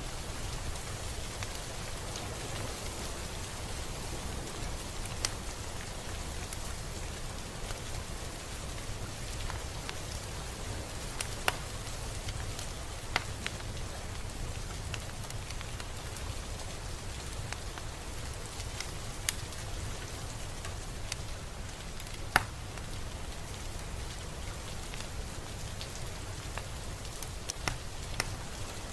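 Steady rain falling, an even hiss with scattered individual drops striking a surface as sharp ticks.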